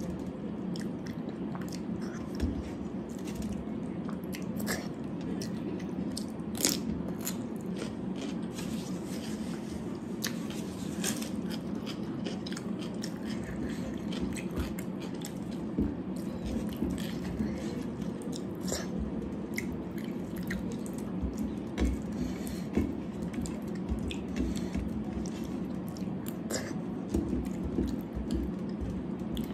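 A person chewing food close to the microphone, with many small clicks and crunches from the mouth, over a steady low hum.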